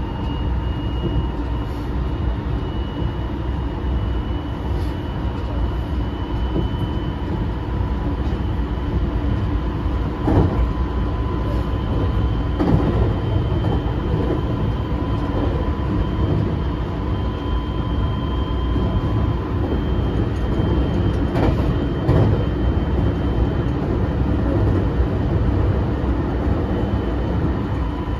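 Running noise inside a JR West 223 series 2000 electric motor car travelling at speed: a steady wheel-on-rail rumble with a few sharp knocks from rail joints. Over it sits a faint steady high whine from the Toshiba IGBT inverter-driven traction motors.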